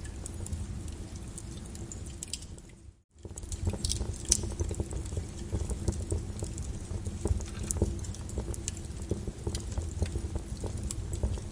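Flowing lava crackling, with irregular sharp clicks and snaps over a low rumble. The sound drops out briefly about three seconds in.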